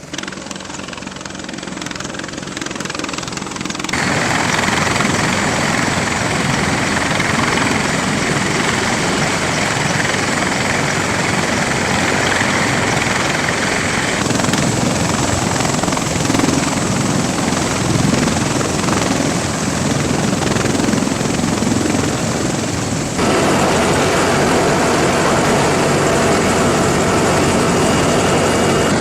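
Helicopter rotor and turbine noise, loud and steady, jumping abruptly in level and tone about four seconds in and again near the end as different recordings are spliced together.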